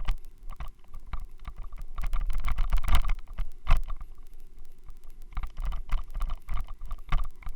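Irregular knocking and rattling over a steady low rumble, picked up by a helmet-mounted Xiaomi Yi action camera: the camera vibrating in its helmet mount, which the uploader names as the cause of the noise.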